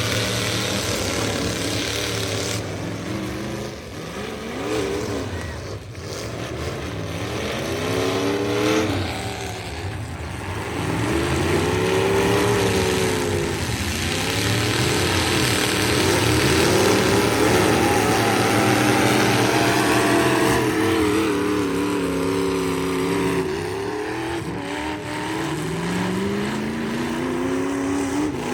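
Full-size pickup trucks' V8 engines revving hard at a demolition derby, their pitch repeatedly rising and falling as the drivers accelerate and let off, several engines overlapping.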